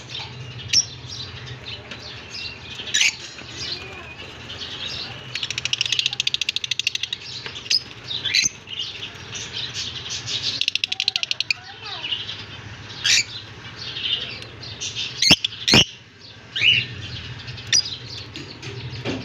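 Budgerigars chirping and chattering with many short high calls, breaking into rapid buzzy chatter twice, around six and eleven seconds in. Two sharp clicks a moment apart near the middle of the second half are the loudest sounds, over a faint steady low hum.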